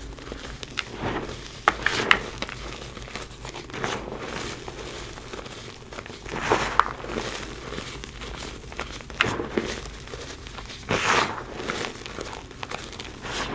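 Reformed gym chalk (powder pressed back into blocks) being crushed and crumbled by hand, a run of irregular crunches and crackles. Louder crunches come about two seconds in, around the middle, and again near the end.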